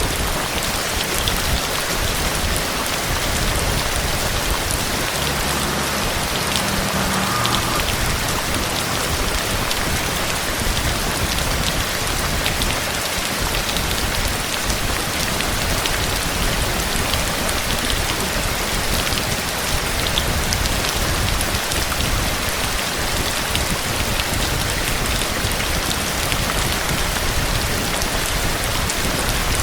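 Steady heavy rain falling on surfaces: an even hiss with scattered drop ticks throughout.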